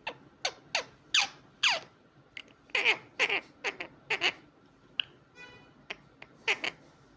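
Indian ringneck parakeet calling: a dozen or more short, sharp squawks, each falling steeply in pitch, spaced irregularly.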